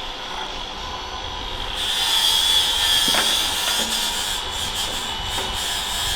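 Steady mechanical workshop noise with a hiss that swells in the middle, and a few light metallic clicks and scrapes.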